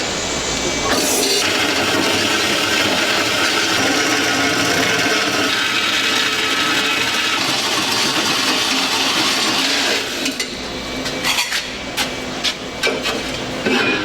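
Handheld power tool working metal with a steady grinding noise for several seconds, then stopping. Near the end come a series of sharp metal taps and knocks.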